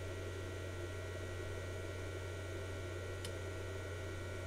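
Agilent 53150A frequency counter running after power-on, its cooling fan giving a steady hum, with a faint click about three seconds in.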